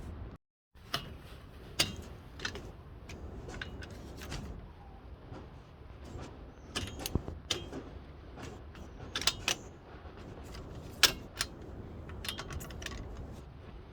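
VW 1.6 TDI diesel engine running, with irregular sharp clicks and rattles over a low steady rumble. The uploader puts the noise down to the accessory-belt tensioner pulley. The sound drops out briefly just after the start.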